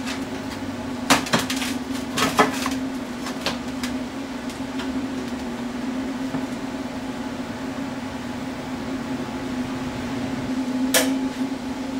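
Steel pieces knocking and clanking as they are handled: a few knocks in the first few seconds and one sharper clank near the end, over a steady low hum.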